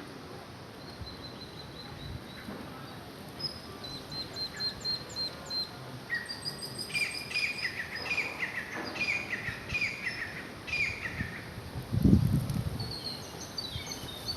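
Small birds chirping and calling: a quick run of about six high notes, then a few seconds of many repeated chirps, with more calls near the end. A brief low thud about twelve seconds in is the loudest sound.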